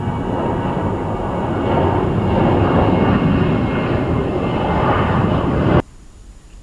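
Jet airliner engines running loud, a dense rush with a high whine that builds over several seconds and then cuts off suddenly near the end.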